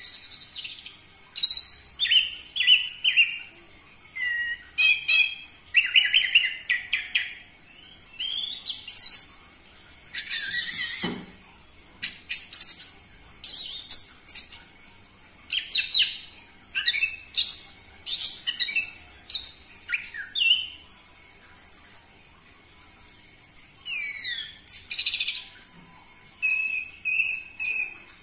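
Orange-headed thrush singing a loud, varied song. Short whistled phrases of rising and falling notes and fast repeated notes come one after another with brief pauses between.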